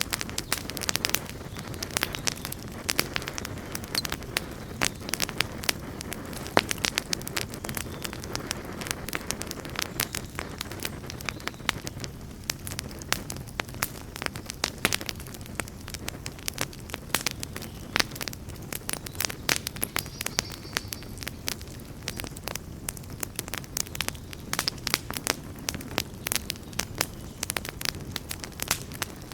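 Wood fire burning steadily, with a low rushing flame sound and dense, irregular crackles and pops from the burning wood.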